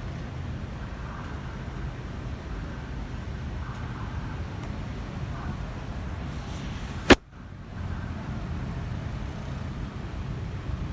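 Steady low rumble of city road traffic. About seven seconds in there is a single sharp, loud click, and the background drops away briefly after it.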